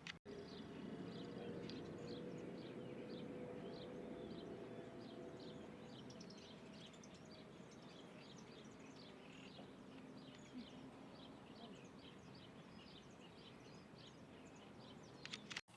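A bird chirping over and over, short high calls that slide downward, a few each second, fewer toward the end. Under them runs a faint steady low hum and hiss.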